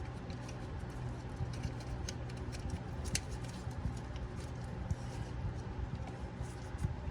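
Small clicks and handling noises as the strut's sensor and its plastic clip are snapped back into place, with one sharper click about three seconds in, over a steady low hum.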